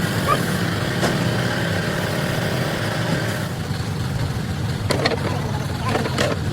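An engine running steadily at idle, with a few sharp metallic clinks in the second half.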